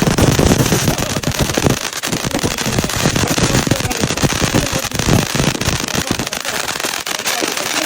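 Consumer firework going off close by: a rapid, dense run of crackling pops and bangs, heaviest in the first two seconds and again about five seconds in.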